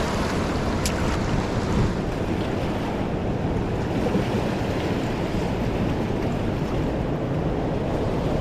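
Steady rush of a fast, swollen river in full flow, with wind buffeting the microphone. A single brief click sounds about a second in.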